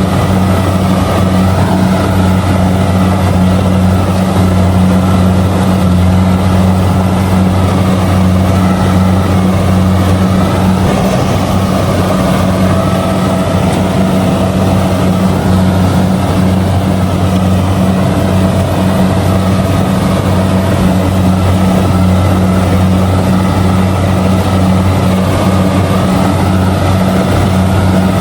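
Kubota DC-70G combine harvester's diesel engine and machinery running steadily while harvesting rice, a loud, even drone with no change in pace.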